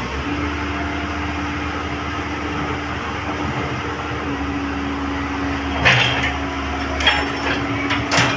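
Komatsu PC130 excavator running steadily, with three sharp knocks about a second apart near the end, from work on the track.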